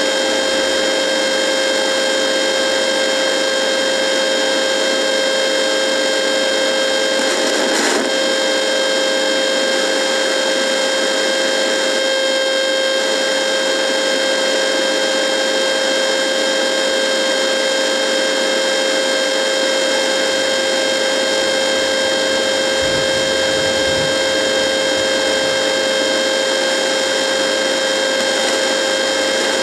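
Radio giving off a steady electrical buzz: a constant hum of several fixed tones over a hiss, with a brief crackle about eight seconds in.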